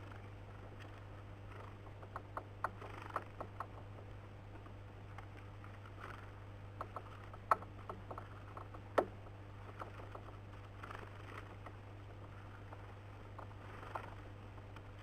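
Irregular sharp taps and knocks of birds pecking and moving about on a bird feeder, in small clusters, over a steady low electrical hum.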